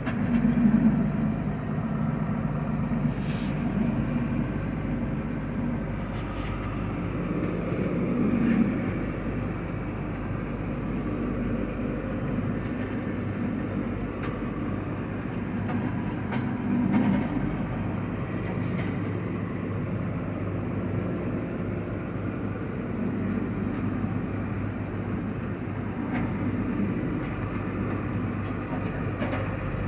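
Combine harvester running steadily: a continuous low mechanical rumble that swells and eases a little now and then.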